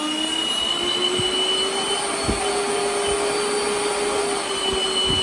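Twin electric ducted fans of an E-flite A-10 foam model jet running steadily at about 30% throttle, a fan whine with a steady high whistle from 3D-printed whistles fitted in the engine nacelles. The pitch rises slightly early on, then holds.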